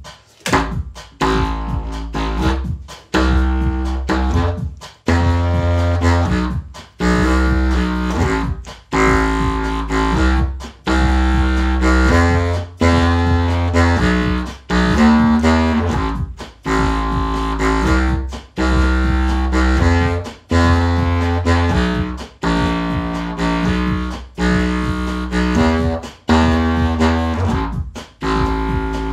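Drum-machine backing beat from a loop pedal, with a deep bass line and an E-flat contra alto clarinet playing a tune over it.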